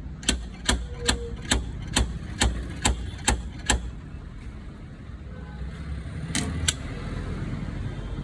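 Hammer tapping on car door sheet metal to work out a dent: nine sharp strikes at about two a second, then two more in quick succession near the end, over a steady low background rumble.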